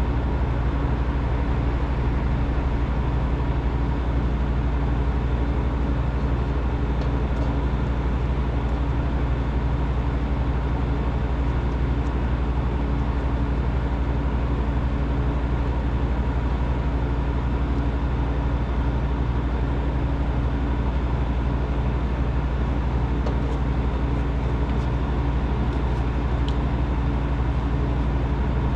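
A machine running at a steady pitch, with a constant low drone and several steady hum tones.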